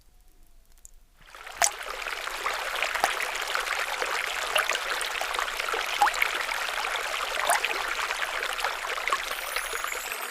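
Running water of a small stream, trickling and gurgling steadily with small plinks and splashes. It starts about a second in, with a single sharp drop near its start.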